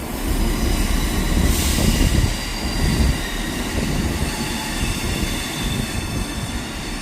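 A train moving on the rails, with a low running noise from its wheels and a high, steady squeal of wheels on the rails.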